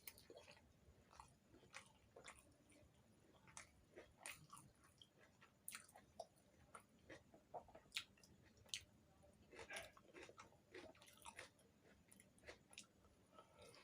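A person chewing and biting food with wet mouth noises, eating puri with potato curry close to the microphone. There are irregular short smacks and clicks, several a second at times.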